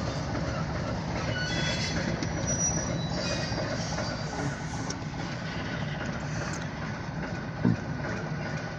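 Freight train of tank cars rolling slowly past: a steady rumble of steel wheels on the rails, with faint high wheel squeal in the first few seconds and a single short knock near the end.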